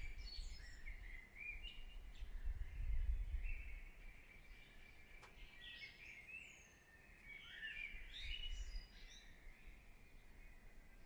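Small birds chirping and twittering, many short high calls and quick rising and falling notes, over a faint low rumble that swells about two seconds in and again near eight seconds.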